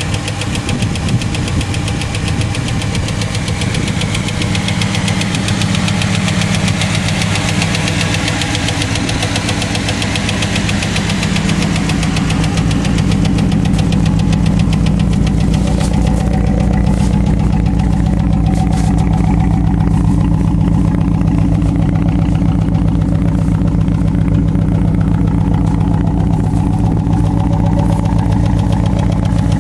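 A 1999 Ford F-150's 4.6-litre V8 running steadily, with a ticking from the front of the engine that the owner puts down to worn hydraulic lifters.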